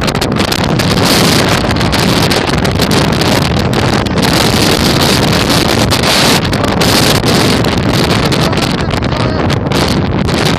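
Strong wind of a snowstorm buffeting the microphone: loud, rumbling wind noise that comes in gusts.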